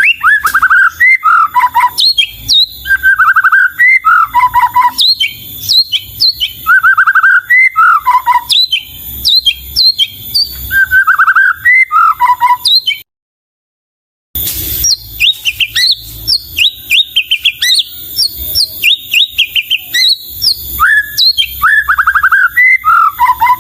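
White-rumped shama (murai batu) in full song: loud, varied whistled phrases that repeat every few seconds, with fuller notes sliding down in pitch mixed with quick high chips. The song drops out for about a second and a half just past halfway, then resumes.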